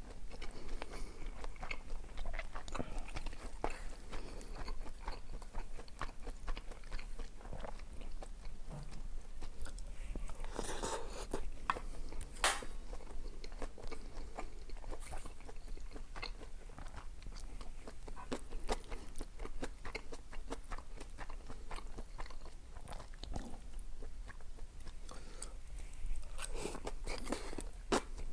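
Close-miked eating: a person chewing and biting food, with many small wet mouth clicks and occasional louder crunches, the sharpest about twelve seconds in.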